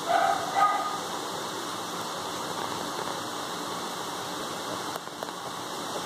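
Steady rain falling on a wet concrete patio and a glass-topped patio table. A dog barks twice right at the start.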